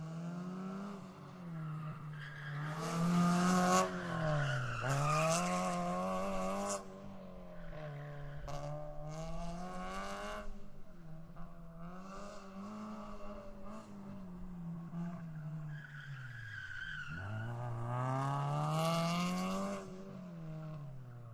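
Car engine revving hard, its pitch climbing and dropping back in repeated swells as if shifting through gears. Two stretches of loud tyre-squeal-like hiss come in, early and again near the end.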